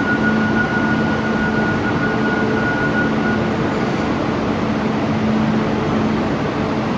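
Steady running noise of a train, with a low hum throughout and a high whine that fades away about three and a half seconds in.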